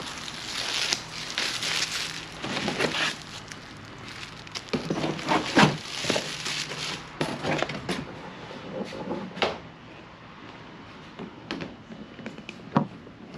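Packaging being handled: irregular rustling and crinkling with scattered clicks and knocks, busiest in the first half and thinning out later.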